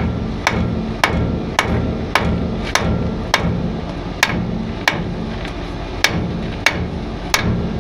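Hammer striking the truck's drive shaft to knock its U-joint loose from the yoke: about a dozen sharp metal blows, roughly two a second, with a longer gap about four seconds in.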